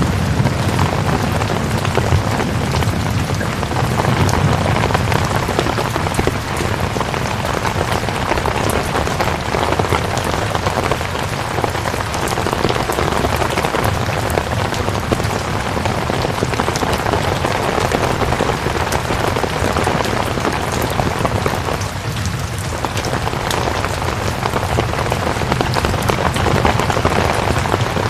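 Steady rain: a dense, even hiss thick with the small ticks of individual drops striking a surface.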